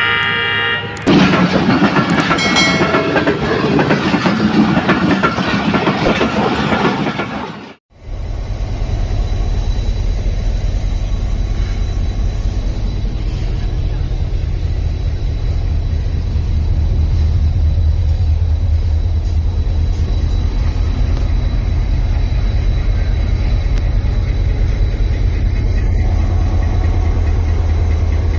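Intro music with booming effects for about the first eight seconds, cutting off abruptly. Then a passenger train running steadily, a low rumble of the train on the rails.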